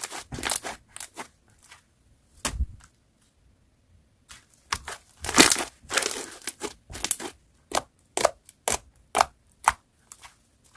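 Slime being pressed and stretched by hand, giving irregular sharp crackles and pops. After a short pause a few seconds in, the crackling comes thick and fast.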